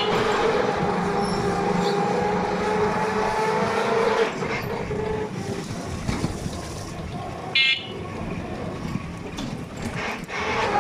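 Vehicle engine running while riding along a road, heard from inside, with a short horn toot about three-quarters of the way in.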